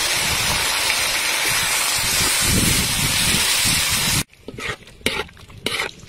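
Squid pieces sizzling in a hot wok of oil and chili paste, a loud steady hiss. About four seconds in it cuts off abruptly, leaving a quieter metal ladle stirring and scraping against the wok with short clicks.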